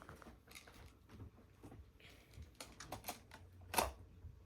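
Faint, scattered clicks and taps of small plastic toy animals being handled among magnetic building tiles, with one louder click a little before the end.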